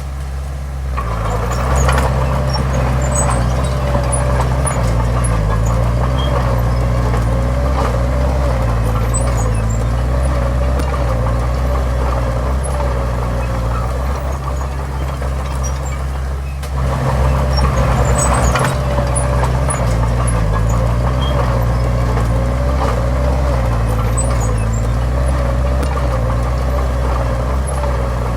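Heavy diesel engine of earthmoving machinery running hard, with a wavering whine over its low drone; the engine picks up sharply about a second in and again a little past halfway.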